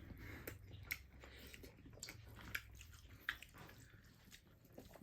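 Faint chewing: scattered small clicks and smacks of someone eating, over a low steady hum.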